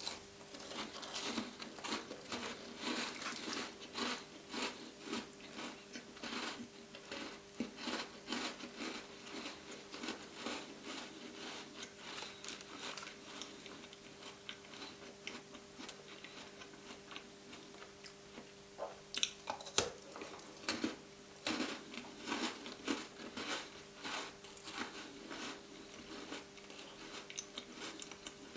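Close-up mouth sounds of chewing chocolate-coated Tim Tam biscuits: a steady string of small crunches, with louder bites about two-thirds of the way through.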